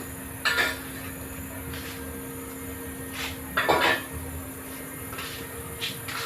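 A steady mechanical hum from the electric-drill-driven PCP air-rifle pump rig, with irregular sharp metallic clacks and knocks; the loudest come about half a second in and near the middle.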